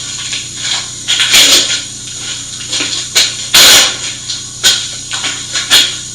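Handling noises while setting a steel block up at a drilling machine: scattered metal clicks and knocks and a few short rushing, hiss-like bursts, the loudest about three and a half seconds in, over a steady low machine hum.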